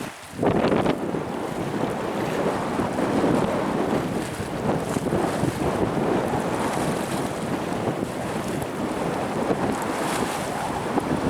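Typhoon-force gale buffering the microphone, with heavy waves surging against the shore; the wind noise jumps up sharply about half a second in and stays strong.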